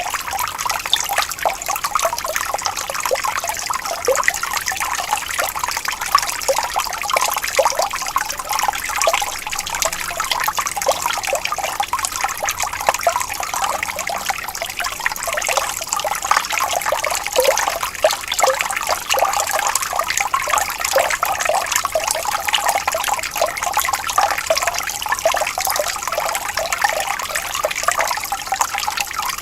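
Water flowing and trickling steadily, a dense even patter of small splashes.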